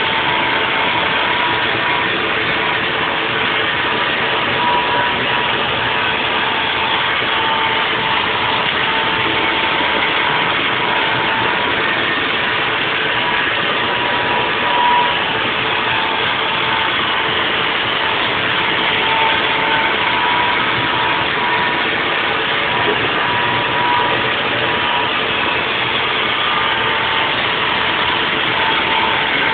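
Haas VF4 CNC vertical mill running steadily while 3D machining a block: a continuous machining noise with a steady high whine.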